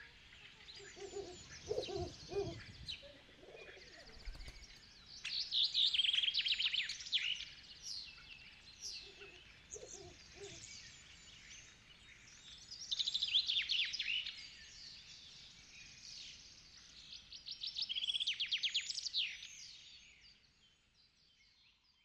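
Songbirds singing: three loud bursts of rapid, high chirping trills several seconds apart, with quieter chirps between, and a few fainter lower-pitched calls about two and ten seconds in. The birdsong fades out at the end.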